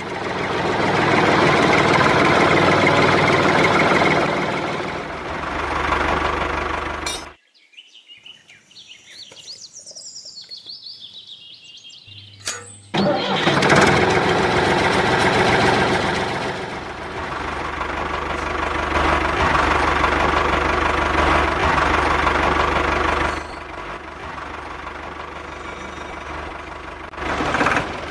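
Small motor of a DIY toy tractor and water pump running steadily. It cuts out about seven seconds in and starts again with a click about five seconds later.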